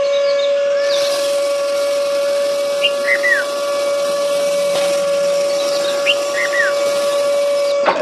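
A small electric motor whining at one steady pitch, with short bird chirps over it. The whine stops sharply near the end.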